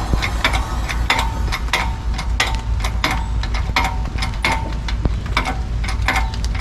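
Irregular metallic clinks and taps, about two or three a second, some leaving a short ring, over a steady low hum: typical of hand tools working on metal engine parts.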